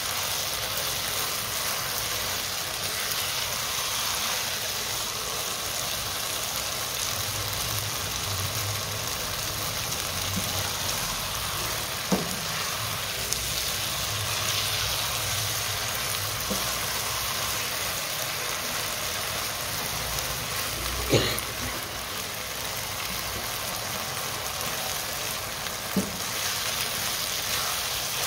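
Chicken and vegetables sizzling steadily as they are stir-fried over a high flame in a nonstick wok, stirred and turned with a silicone spatula. Three sharp knocks of the spatula on the pan are spread through.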